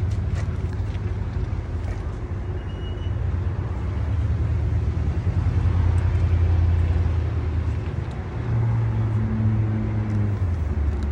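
An engine running steadily at idle with a low rumble. Its pitch shifts slightly about eight seconds in.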